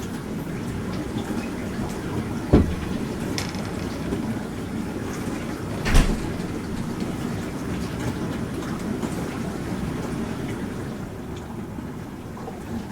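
Bosch Serie 4 SMS46MW05G dishwasher running, a steady low rumble of water sloshing and pump hum, with two sharp knocks about two and a half and six seconds in.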